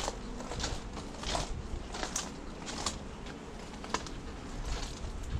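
Irregular light clicks and taps from beehive frames and equipment being handled, about one every second.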